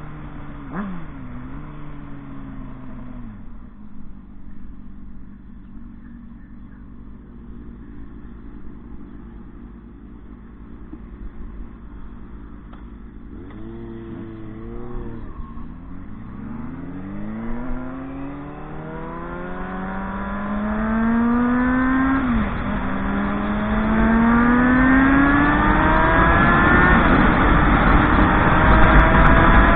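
Motorcycle engine slowing down to a steady idle, given a couple of quick throttle blips near the middle, then accelerating with rising revs, a shift about two-thirds in, and revving up again, getting louder toward the end.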